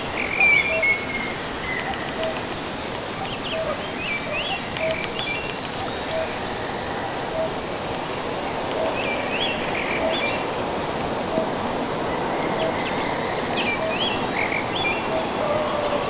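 Several wild birds singing with high chirps and whistles, over a low note that repeats steadily about three times every two seconds and an even background hiss.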